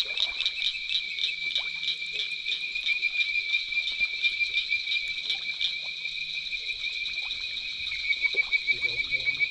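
Chorus of frogs calling in a swamp at night: a steady, high, fast-pulsing trill.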